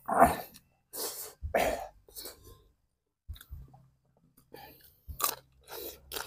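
A person chewing and crunching food, with a few crisp bites into a raw green vegetable stalk in the last second or so.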